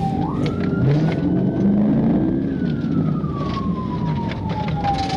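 Police car siren on a wail cycle: the tone rises quickly near the start, holds high, then falls slowly over a few seconds and begins rising again at the end. Vehicle engine and road noise run beneath it.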